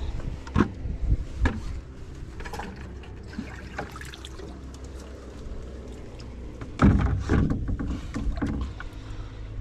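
Knocks and thumps of gear and feet against a small fishing boat's hull, over a steady low rumble; a few sharp knocks early and a louder cluster of thumps about seven seconds in.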